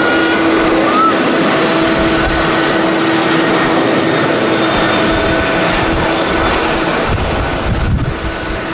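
Jet airliner engines running loud and steady, with a few steady tones in the noise. Strong wind buffets the microphone, with heavier low rumbling gusts in the second half.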